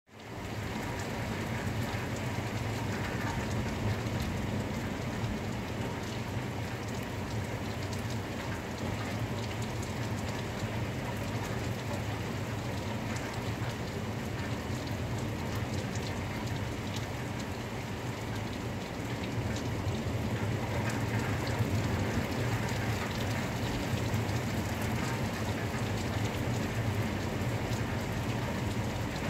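Steady rain falling, with many separate drops ticking on hard surfaces; it gets a little heavier about twenty seconds in.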